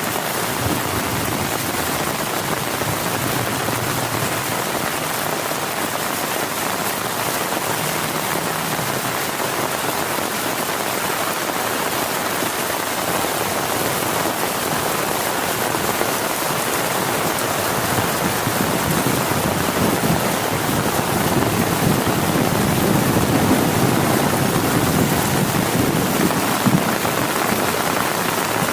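Heavy rain falling steadily as a dense, even hiss, with a deeper low rumble swelling in its last third.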